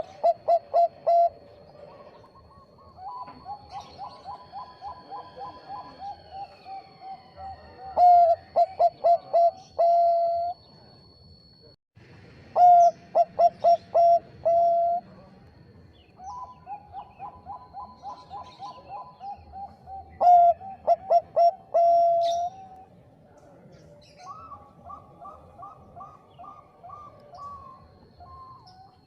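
Bangkok-type zebra dove (perkutut) singing its cooing song, phrase after phrase. Loud bursts of rapid staccato coos alternate with softer, quicker rolling runs of notes. A faint steady high whine lies underneath for the first twelve seconds and again near the end.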